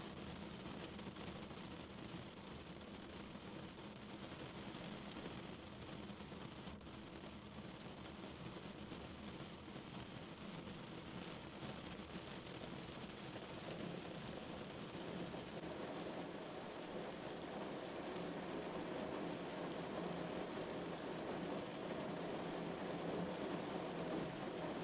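Steady rain falling on a car, an even wash of drops on the body and glass that grows gradually louder through the second half.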